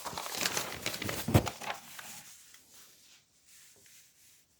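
Close handling noise: irregular rustling and scraping with a sharp knock about a second and a half in, dying down to faint room sound after about two seconds.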